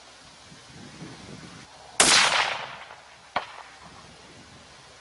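A single shot from a Remington 700 XCR bolt-action rifle in .308 Winchester: a sharp crack about two seconds in that rolls away over about a second. About a second and a half later comes a short, much fainter smack, the bullet striking the steel gong downrange.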